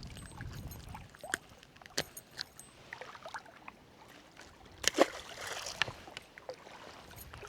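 Quiet water sounds with scattered small clicks and taps, and a short rushing burst about five seconds in.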